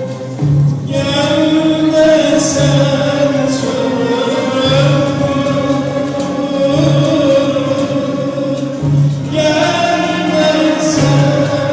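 A Turkish classical song in makam Kürdilihicazkâr, sung with long held, gliding notes over an instrumental ensemble, with a low drum beat about every two seconds.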